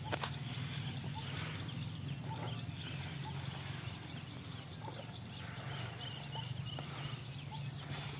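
Scattered short bird-like calls, roughly one a second, over a steady low hum in the outdoor ambience.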